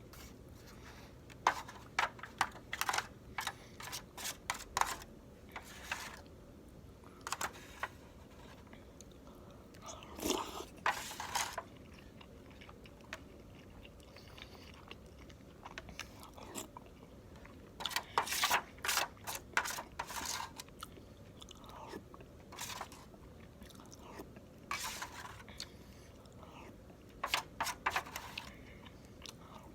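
Close-miked chewing of steamed chicken momo dumplings: wet mouth clicks and smacks that come in bursts, with quiet pauses between bites.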